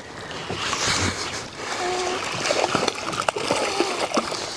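A hooked redfish (red drum) splashing and thrashing in the water as it is fought in, with irregular splashes and spatters.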